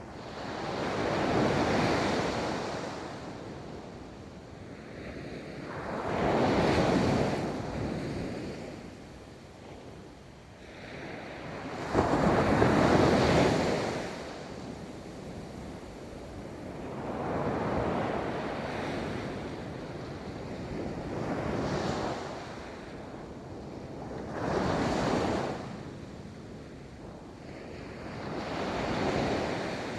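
Ocean waves breaking and rolling onto a beach, about seven surges in half a minute, each swelling and fading over a few seconds. The loudest comes in suddenly about twelve seconds in.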